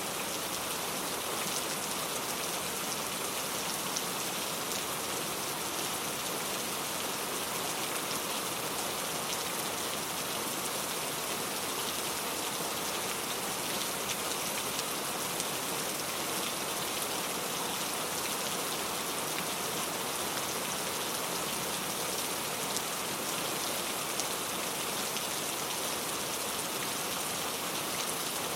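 Steady rain falling, an even hiss of many drops with faint patter on a surface.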